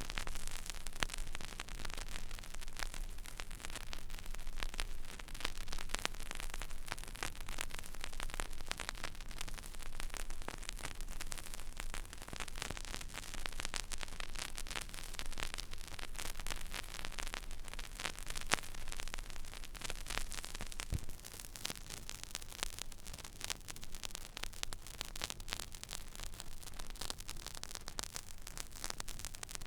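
Stylus riding an empty vinyl record groove: steady surface hiss with dense, irregular crackle and pops, over a low hum. A single sharper pop stands out about 21 seconds in.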